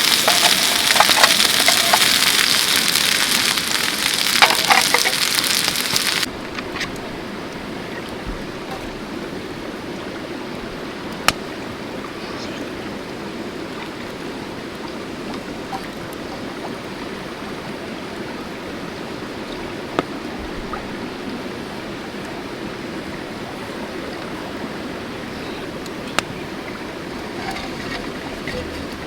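A loud crackling hiss for about six seconds stops suddenly, giving way to the steady rush of a mountain stream flowing. A few single sharp clicks fall over the water sound.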